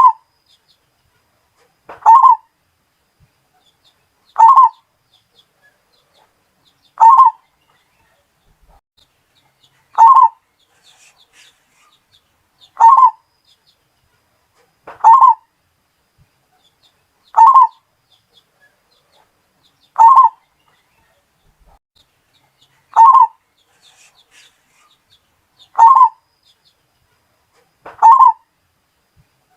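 Zebra dove (Bali perkutut) cooing: short phrases repeated about every two and a half to three seconds, about a dozen times.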